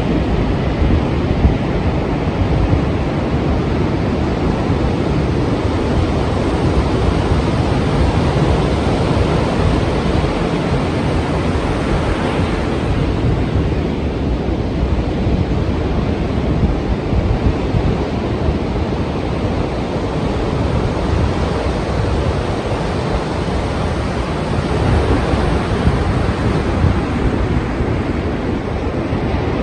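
Strong ocean surf: waves breaking and rushing without pause, with wind buffeting the microphone.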